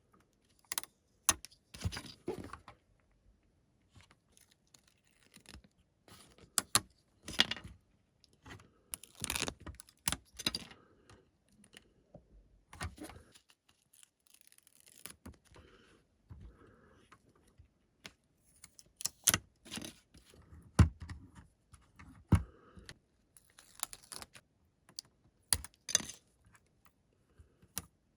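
Hands working on a plastic brick-built car model and its sticker sheet: irregular light clicks and taps of plastic pieces, with short rustles and scrapes of the sticker sheet, sticker backing and fingers on plastic.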